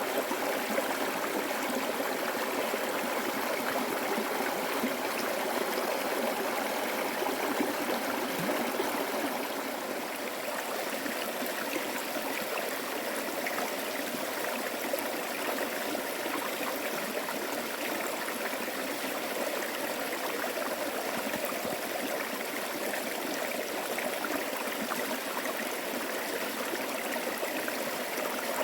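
A flowing stream: steady, continuous rushing and trickling of water, a little quieter from about ten seconds in.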